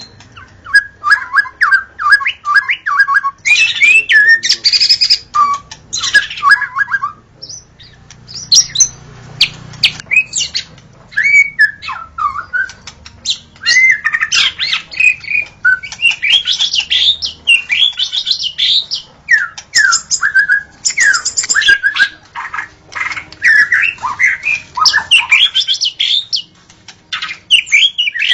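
White-rumped shama (murai batu) singing a long, varied run of rapid whistled and chattering phrases. The song dips briefly about seven seconds in.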